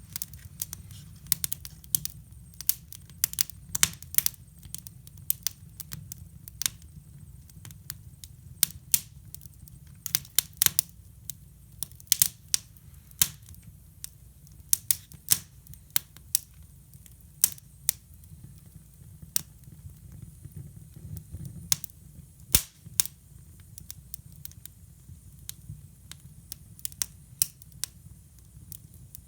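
Wood fire burning in a hybrid fireplace, crackling with irregular sharp pops, sometimes several in quick succession, over a low steady rumble.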